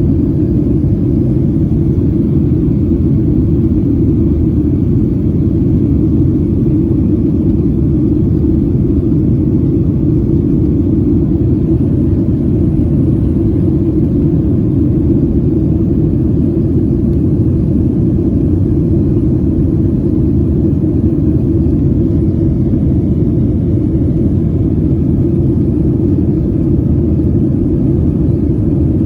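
Boeing 737 cabin noise in flight: a steady, unchanging low rumble of engines and airflow heard from inside the passenger cabin.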